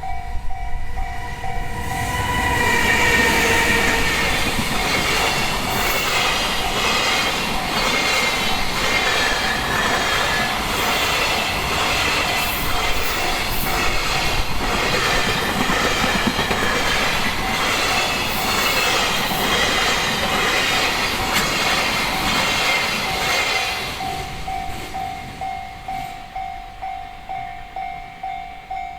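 Container freight train hauled by an EH500 electric locomotive passing over a level crossing, its wheels clacking steadily over the rail joints, while the crossing's warning bell rings throughout. The train reaches the crossing about two seconds in and clears it around 24 seconds, leaving the bell ringing in even pulses, about two a second.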